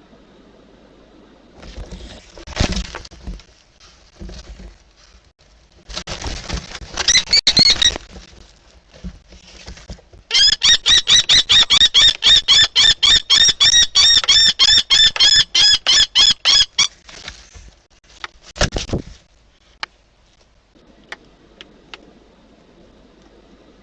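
A common kestrel's rapid, shrill kee-kee-kee alarm calling, about four calls a second for some six or seven seconds, during a confrontation with a barn owl. Before it come harsh, noisy hissing screeches, and near the end a short, loud noisy burst.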